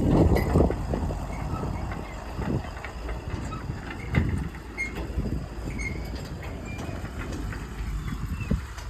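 Heavy diesel machinery running with a low rumble and irregular clanking and rattling. It is louder in the first second, then settles.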